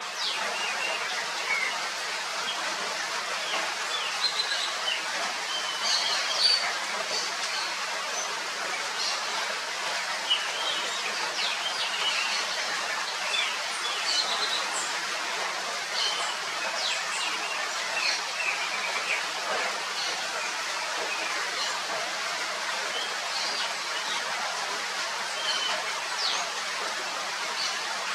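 Steady rain falling, with many short high chirps and ticks scattered throughout.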